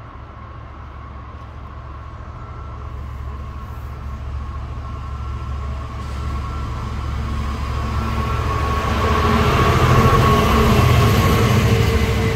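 Class 66 diesel locomotive's two-stroke V12 engine running under power, growing steadily louder as it approaches and passes at speed, with a steady high whine over the rumble. About two thirds of the way in the noise is at its loudest, and near the end the biomass hopper wagons roll past behind it.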